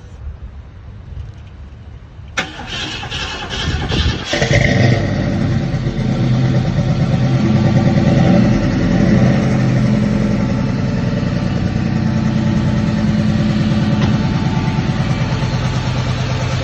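1966 Shelby GT350's 289 V8 cold-starting: the starter clicks in a couple of seconds in and cranks for about two seconds, the engine catches, and it settles into a steady idle.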